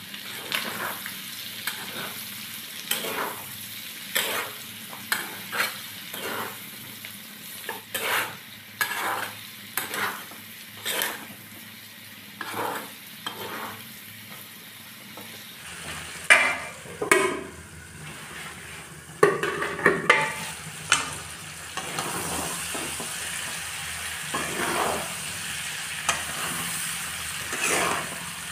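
Pork pieces frying in their own rendered fat with spices, sizzling while a spatula stirs and scrapes them around the pan in strokes about once a second. The sizzle gets louder about two-thirds of the way through.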